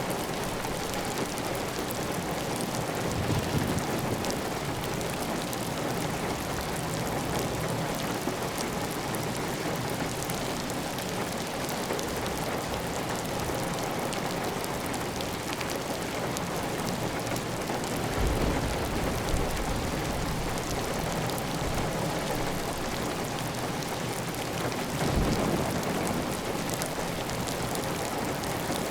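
Heavy, steady rain falling on a clay tile roof, with water running off the roof edge. Three brief low rumbles rise through the rain.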